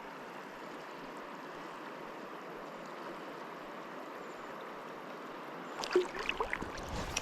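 Steady rush of river current. About six seconds in, a few sharp knocks and splashes come over it.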